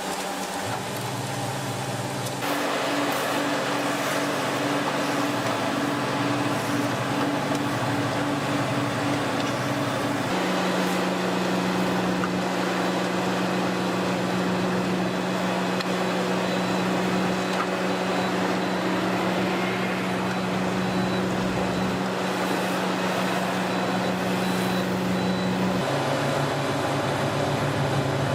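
Engines of heavy construction machinery running steadily, with a low drone and a noisy mechanical clatter above it. The pitch of the drone jumps abruptly three times, as one machine's sound gives way to another's.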